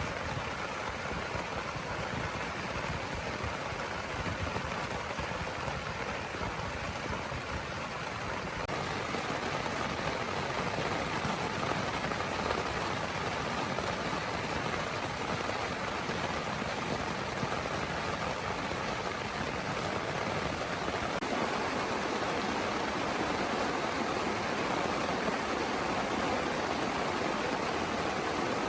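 Heavy rain falling steadily as an even hiss, growing a little louder about nine seconds in.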